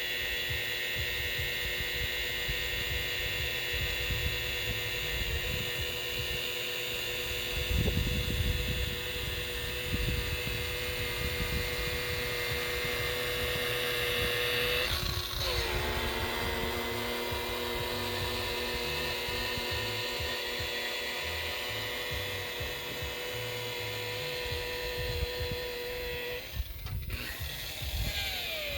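Electric boat buffer running on fibreglass gelcoat with a steady motor whine. Its pitch dips and recovers twice, about halfway through and again near the end.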